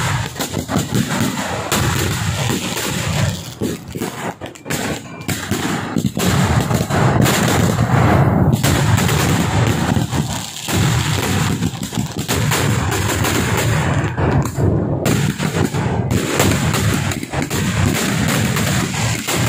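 Fireworks display going off in a rapid, near-continuous barrage of loud bangs and crackling, like machine-gun fire, with a brief slackening a few seconds in and again around the middle.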